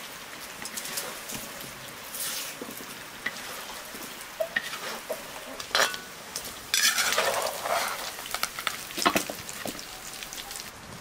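Pieces of lamb sizzling in hot fat in a cast-iron cauldron. They are stirred and scraped with a spatula and a metal slotted skimmer, which clinks and scrapes against the pot. The sizzle and stirring swell loudest for about a second shortly past the middle.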